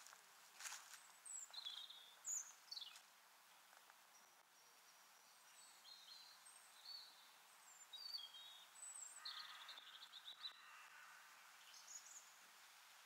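Faint songbird calls, short high chirps and whistles scattered through, with a quick run of notes about nine seconds in. A few footsteps on the path sound in the first three seconds.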